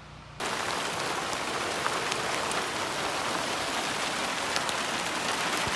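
Hail coming down hard, a dense steady hiss of stones hitting surfaces with scattered sharp ticks, starting abruptly about half a second in.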